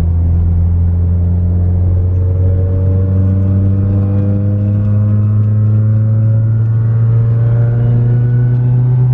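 Supercharged Chevrolet Cobalt SS's four-cylinder engine pulling in gear, its note climbing slowly and steadily as the car gathers speed.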